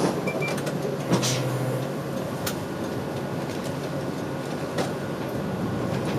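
Route bus running, heard from inside: a steady engine hum and road noise. A short series of high beeps sounds just after the start, and a few sharp clicks and rattles come at intervals.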